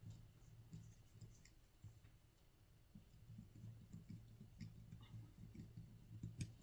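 Faint scattered clicks and ticks of a small hex driver working a screw into an RC helicopter frame, with a sharper click near the end, over a low steady hum.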